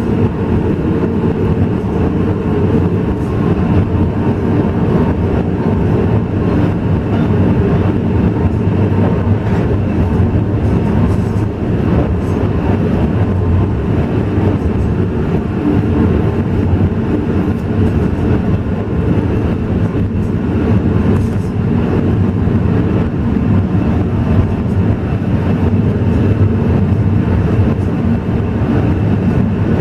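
Alishan Forest Railway train running with a steady, even rumble of wheels and engine and faint scattered clicks.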